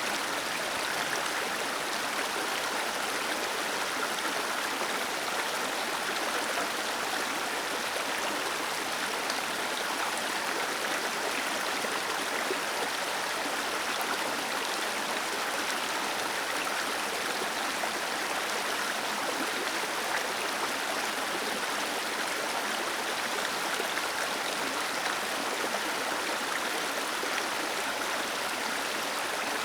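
Small waterfall cascading steadily, a continuous even rush of falling and running water.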